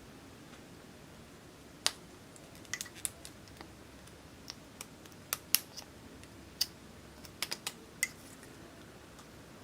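A dozen or so sharp, irregular clicks and taps from small hard objects being handled, spread from about two seconds in to about eight seconds in.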